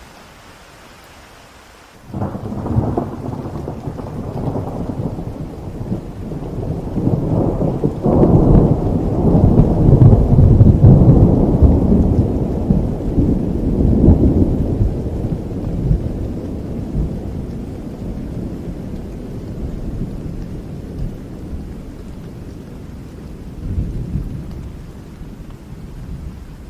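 A long roll of thunder breaks in suddenly over steady rain about two seconds in. It swells to its loudest in the middle and slowly rumbles away, with one smaller swell near the end.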